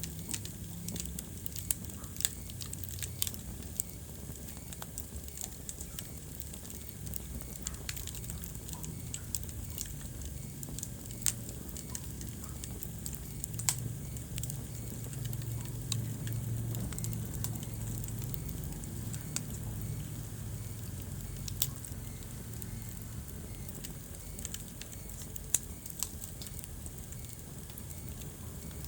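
Wood fire burning in a fireplace: irregular crackling with scattered sharp pops, a handful of them much louder, over a steady low rumble of the flames.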